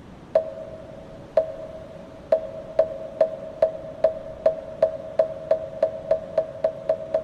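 Buddhist moktak (wooden fish) struck in a speeding-up roll: the first strokes come about a second apart, then they quicken steadily to about four a second, each one a hollow knock with a clear ringing pitch.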